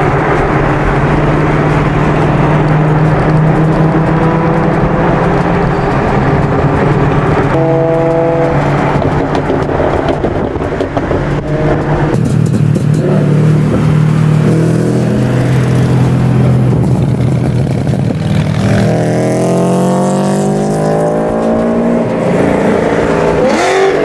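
Car engines running through a cruise, a steady drone whose pitch shifts up and down. Over the last few seconds an engine revs up, rising in pitch as the car accelerates.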